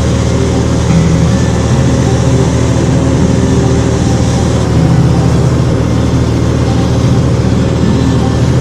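Cessna 182's piston engine and propeller running steadily, a loud, even drone.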